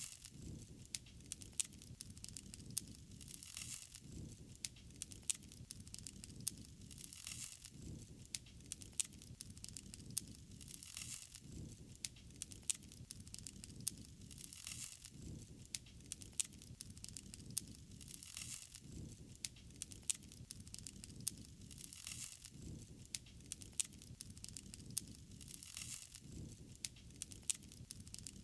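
Wood fire crackling: frequent sharp pops and snaps over a low steady rumble, with a soft hiss swelling about every four seconds.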